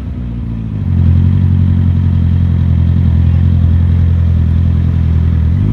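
Motorcycle engine running at steady revs, getting louder about a second in and then holding an even pitch.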